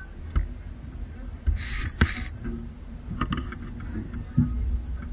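Heritage train running: a steady low rumble with irregular knocks and clacks from the wheels and carriage, and a short hiss about a second and a half in.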